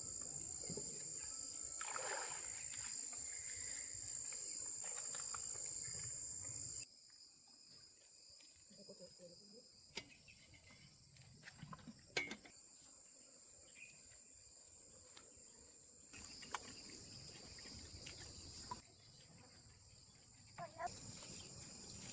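Steady high-pitched chorus of insects, which drops away abruptly about seven seconds in and comes back later, with a few faint knocks and clicks in between.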